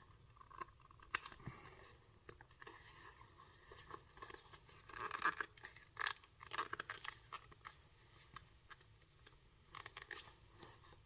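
A new, stiff full-leather knife sheath being worked and squeezed by hand to open its flat-pressed mouth: faint creaking and rustling with scattered small clicks, busiest about five to six and a half seconds in.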